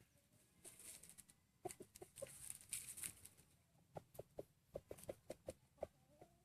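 White-breasted waterhen giving soft, low clucks, quiet and brief, coming in a quicker run of about three a second in the second half, with some faint rustling earlier.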